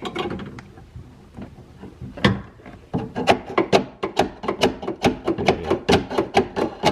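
Sharp knocks as a stuck window slider is banged out of its track: a few scattered hits, then a steady run of about four knocks a second from about three seconds in.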